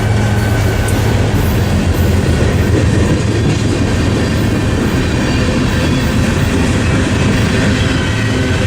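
Train passing at trackside, its cars rolling over the rails in a loud, steady rumble with a low hum underneath.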